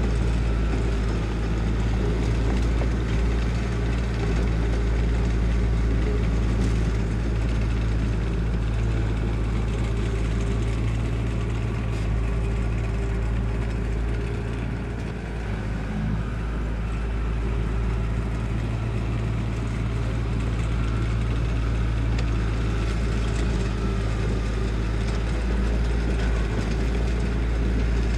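Diesel engine of heavy construction equipment running steadily, easing off briefly about halfway through.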